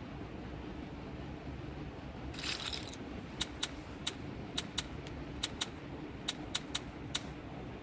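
A brief hiss, then a run of about a dozen sharp, irregular clicks over some four seconds, over a low steady hum.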